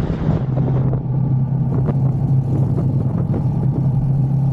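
Vehicle engine running steadily at cruising speed on the road, a constant low hum with road and wind noise above it.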